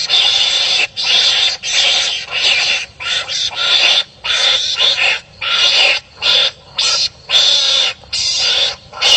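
Wild animals squabbling: an unbroken run of harsh, raspy calls, each under a second long, coming about once or twice a second.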